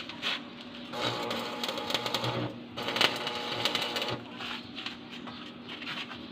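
Electric arc welding: the crackling sizzle of the welding arc in two runs, from about a second in to just before three seconds and again for about a second after that, over a steady low hum.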